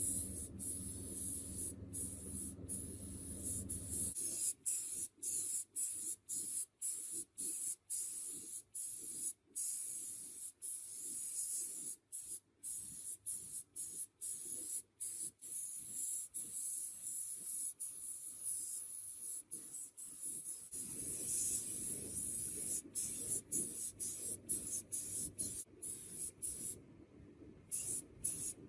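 Spraying hiss, switched on and off in many short bursts, as from a spray gun or spray can being triggered repeatedly. A steady low hum runs underneath for the first four seconds, then stops.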